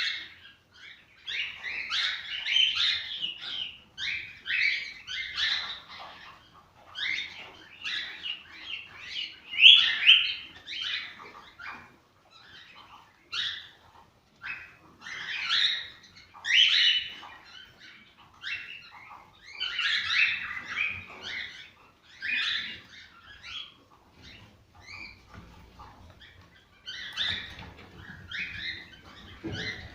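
Cockatiels chirping and warbling: bursts of quick, high chirps broken by short pauses.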